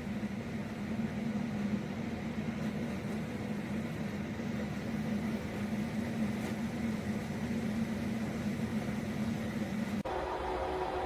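Electric coffee percolator running: a steady hum with an even hiss over it, stopping abruptly about ten seconds in.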